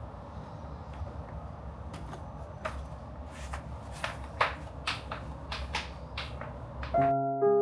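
A string of light clicks and knocks, a dozen or so at uneven intervals, over a steady low rumble. Soft piano music starts near the end.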